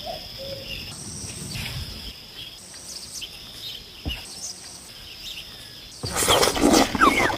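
Outdoor animal sounds: high, steady chirring that starts and stops, like insects or birds, with a single low thump a little after four seconds. About six seconds in, a much louder noisy stretch with short chirps takes over.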